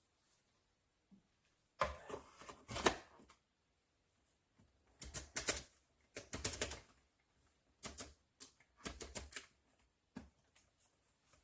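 Handling noise: several short bursts of clicking and clattering, as of hard objects being moved and set down, with quiet gaps between them.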